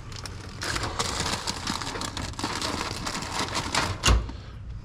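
Plastic packaging crinkling and rustling as drink packs are handled, with one loud thump near the end.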